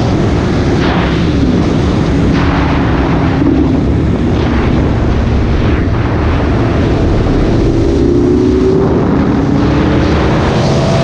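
BMW S1000RR inline-four motorcycle engine pulling hard under acceleration, heard from the rider's seat through heavy wind rush, its pitch climbing steadily over the last few seconds as revs build. A second sport bike, a Yamaha R1, runs alongside.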